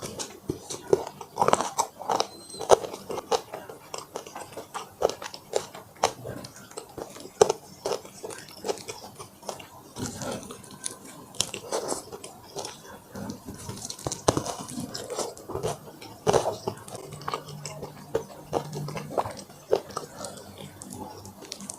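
Close-miked eating: fried chicken being bitten and chewed, a steady run of irregular crisp crunches and wet chewing.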